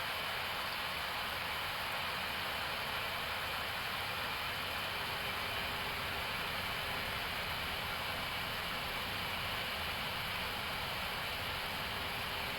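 Steady rushing background noise on the flight deck of an Airbus A321neo during its approach, with a faint steady high whine over it.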